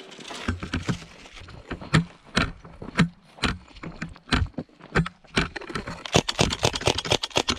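Irregular sharp clicks and knocks, a few each second, coming thick and fast in the last second and a half.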